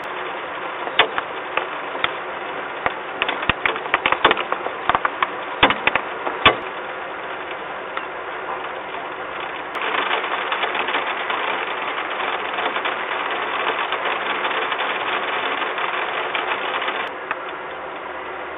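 Raindrops ticking and tapping irregularly on the nest-box camera housing and the metal platform over a steady hiss. About ten seconds in, a louder, even rush of noise starts, then cuts off suddenly about seven seconds later.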